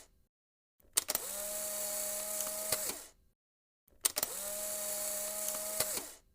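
A small motor whirring at a steady pitch for about two seconds, starting and stopping with a click, three times over with short silences between.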